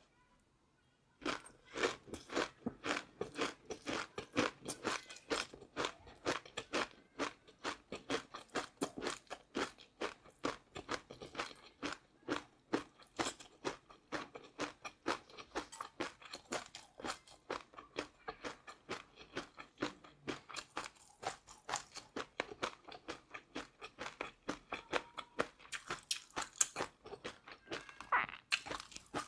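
A person chewing crunchy food close to the microphone: a quick, even run of crisp crunches, about three or four a second, starting about a second in.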